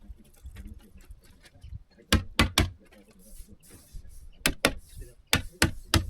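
Sharp knocks in quick runs of two to four, about a quarter-second apart, with brief hissing between them, as of tool strikes fixing roof paper on the porch roof.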